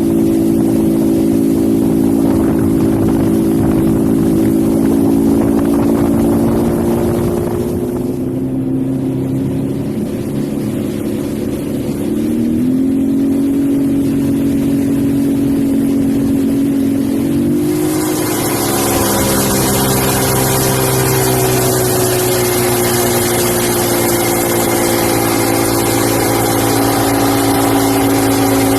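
Freshly rebuilt 1986 Evinrude 200 HP two-stroke V6 outboard running under way. Its engine note holds steady, steps up in pitch twice in the middle, then eases slowly down. A little past halfway a loud rush of wind and water noise joins it.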